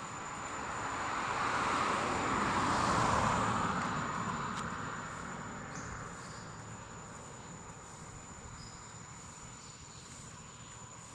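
A passing vehicle: a rushing noise that swells to its loudest about three seconds in, then slowly fades away.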